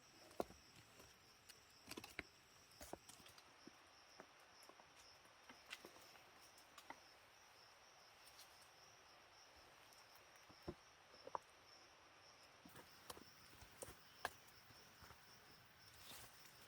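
Faint forest ambience: a steady, high, faintly pulsing insect trill, with scattered light clicks and ticks.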